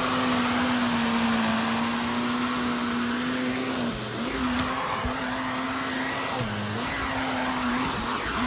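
Vacuum cleaner running steadily while sucking up crumbled sand-wall debris. Its hum dips briefly in pitch a few times in the second half.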